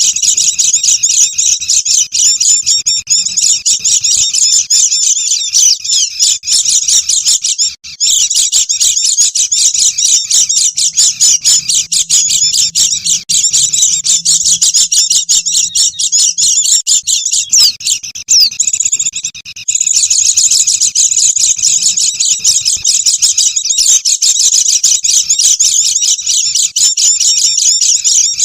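Dense flock chatter of white-eyes (pleci): many rapid, high twittering calls overlapping without a break, apart from a brief lull about two-thirds of the way through.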